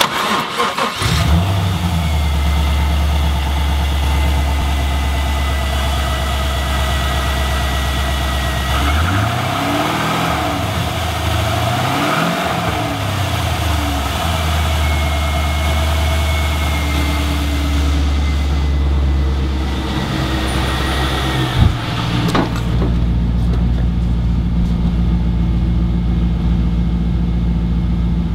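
2002 Trans Am's 5.7-litre LS1 V8 starting and settling into a steady idle. About nine to thirteen seconds in it is revved a few times, rising and falling, then it idles again. After a sharp click near the end, the idle is heard from inside the car's cabin, with the high end muffled.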